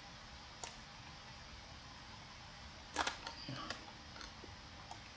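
A few sharp computer mouse clicks over a faint steady hiss: one about half a second in, then a quick cluster around three seconds in.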